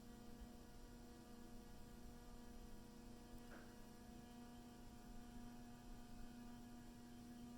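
Faint, steady electrical hum on one pitch from a Hunter Dempsey 59242 ceiling fan, the unwanted noise the owner complains of.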